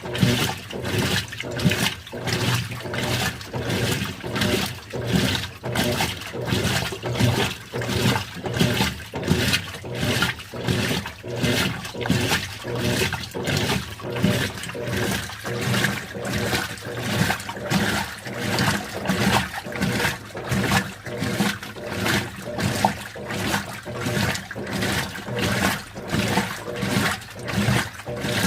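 Continental Evolution 13 kg washing machine agitating on its delicates programme at an extra-low water level: water sloshing and churning in a steady, evenly repeating rhythm.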